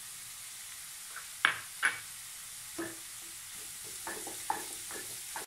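Chopped onions and green chillies sizzling in coconut oil in a nonstick kadai, just beginning to soften, with a steady hiss. A spatula scrapes and knocks against the pan about six times as they are stirred, loudest twice in the first two seconds.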